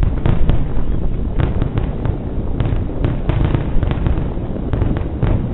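Aerial firework shells bursting in a rapid, irregular series of sharp bangs over a steady low rumble.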